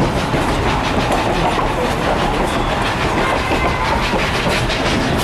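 Durango & Silverton narrow-gauge train cars rolling along the track: a steady rumble and rattle with the clickety-clack of the wheels over the rail joints.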